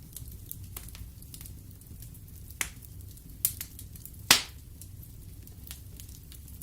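Wood fire burning in a fireplace, crackling: a low steady rumble under scattered small snaps, with three louder pops in the middle, the last the loudest.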